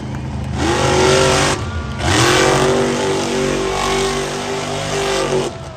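Monster truck engine revving hard at full throttle. It climbs about half a second in, drops briefly, climbs again and holds for about three seconds, then cuts off sharply.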